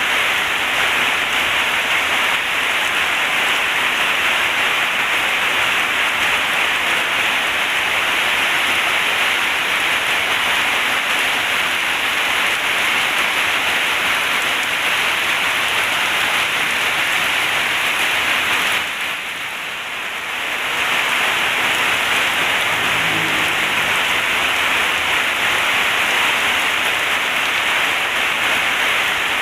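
Heavy rain falling in a steady downpour, easing briefly about two-thirds of the way in before returning at full strength.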